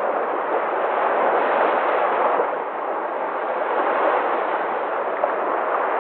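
Sea waves breaking: a steady, dense rush of surf.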